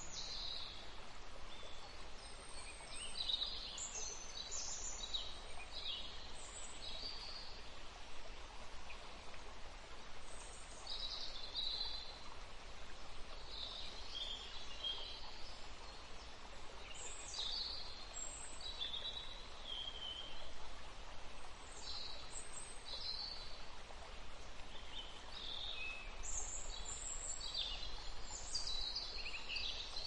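Small birds chirping, many short high calls scattered irregularly over a steady background hiss.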